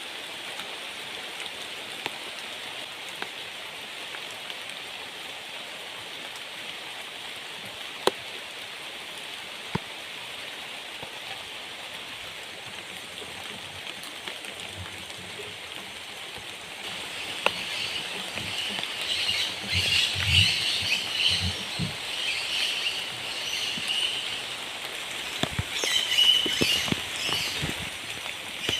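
Rain falling steadily, a constant hiss with occasional single drops striking close by. About seventeen seconds in, a louder irregular stretch of high-pitched sounds and a few low thuds joins the rain.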